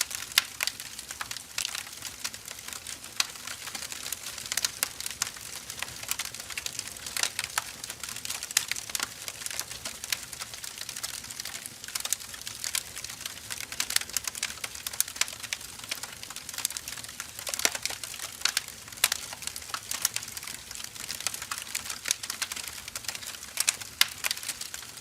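Burning firewood crackling and popping, with dense irregular snaps over a soft hiss of flame.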